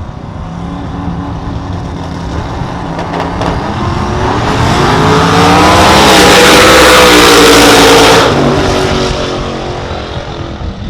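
Drag race car engine at full throttle running down the strip, building steadily louder with the pitch climbing, loudest from about five to eight seconds in, then dropping off sharply just after eight seconds as it lifts or passes.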